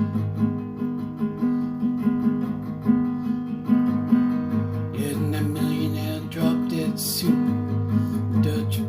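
Acoustic guitar music: picked notes in a steady rhythm, turning to fuller strumming about halfway through.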